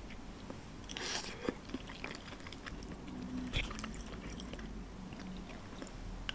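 Close-up eating sounds: chewing mouthfuls of tomato risotto, with small clicks and a brief scrape of a wooden spoon on a ceramic plate.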